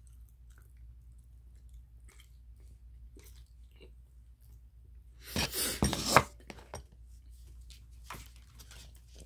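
A person chewing dakgangjeong (Korean sweet crispy fried chicken): soft chewing and mouth clicks, with a short loud burst of noise about five seconds in.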